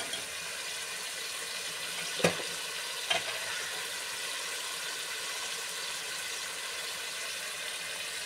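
Onions and spices sizzling gently in ghee in an aluminium pot, a steady hiss. About two and three seconds in come two sharp clinks of the metal stirring ladle against the pot.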